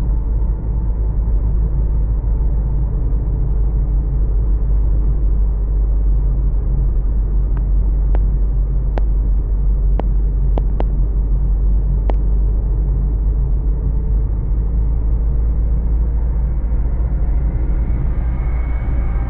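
Storm wind blowing hard against the microphone: a loud, steady low rumble, with a few sharp clicks in the middle.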